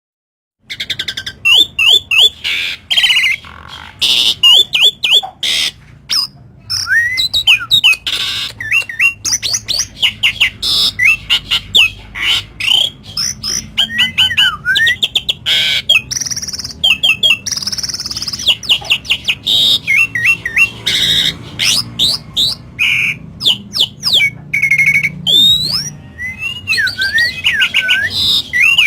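Asian pied starling (jalak suren) singing in a rapid, loud, unbroken stream of shrill chatters, squawks and whistles, its song full of mimicked lovebird phrases.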